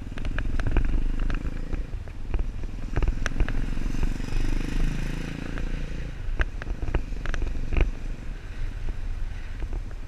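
Motorcycle engine running with a steady low rumble, with scattered sharp clicks and knocks over it and a brief swell in the engine note midway.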